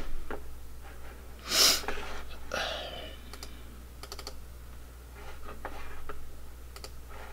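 Computer keyboard and mouse clicks, scattered and irregular, with a brief louder noise about one and a half seconds in.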